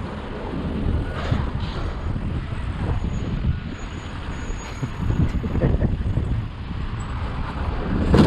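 Road and engine noise of a vehicle driving, a steady low rumble heard from a dashcam, with one sharp bang near the end.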